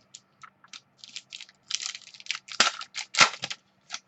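Trading cards and their packaging being handled: a run of small clicks and crinkles, with two louder crinkling rustles about two and a half and three seconds in.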